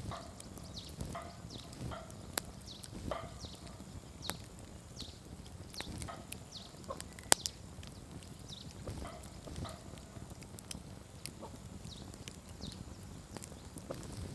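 Campfire burning: wood crackling with many sharp pops, one much louder pop about seven seconds in, over a low rumble of flame. Short, high, falling squeaks come and go throughout.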